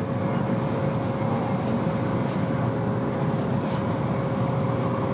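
Cabin noise inside an N700 series Shinkansen passenger car while the train runs: a steady rumble with a faint steady hum over it.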